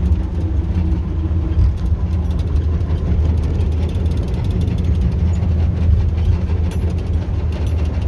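YaMZ-236 V6 diesel engine of a TU6A narrow-gauge locomotive running steadily as the locomotive travels, heard from inside the cab, with a low hum and scattered rattling clicks from the running gear.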